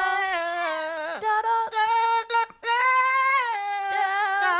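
A high voice singing long held notes, sliding between pitches, with a fast wavering vibrato near the end.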